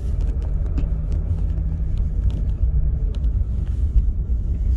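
Car driving, heard from inside the cabin: steady low engine and road rumble, with an even engine hum that fades out about three seconds in.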